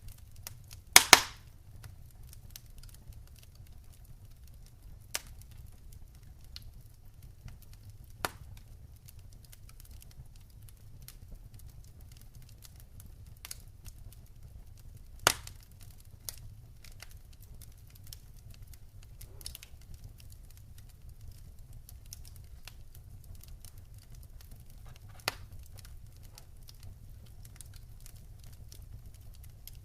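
Wood fire crackling: scattered sharp pops and snaps of burning logs, the loudest a double pop about a second in, over a steady low rumble.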